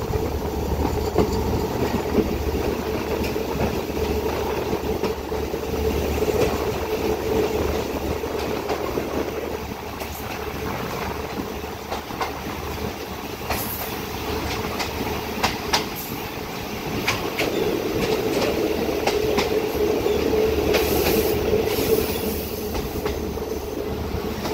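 Passenger train coach rolling slowly through a rail yard: a steady rumble of steel wheels on the track with clicks over rail joints and points. Brief high wheel squeals come a little after halfway and again near the end.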